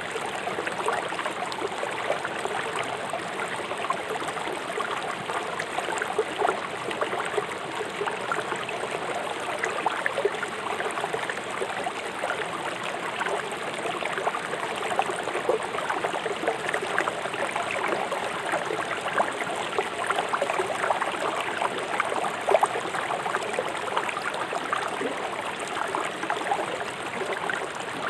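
A swift river rushing over stones, making a steady rush of water with many small splashes.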